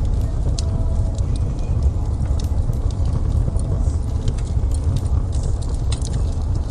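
Wood fire in a fireplace crackling: scattered sharp pops and clicks over a steady low rumble of the flames.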